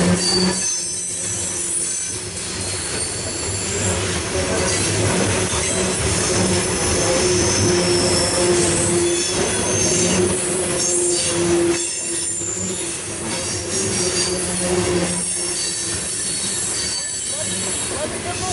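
A loaded CSX coal train's steel-wheeled hopper cars rolling steadily past on the rails, a continuous rumble and clatter. Steady high-pitched wheel squeal rings over it.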